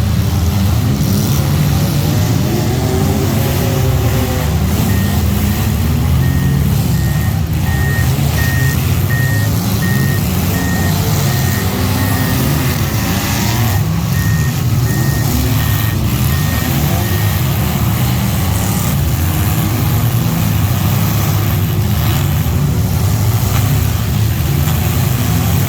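Heavy vehicle engine running steadily, with a backup alarm beeping at an even pace for about twelve seconds, pausing briefly partway through.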